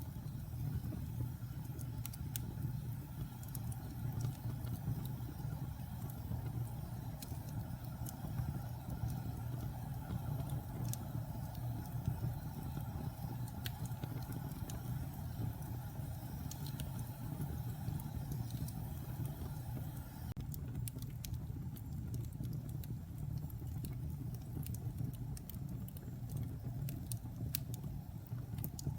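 Wood fire burning in a fireplace: a steady low rumble with scattered sharp crackles and pops. The crackles come more often in the last several seconds.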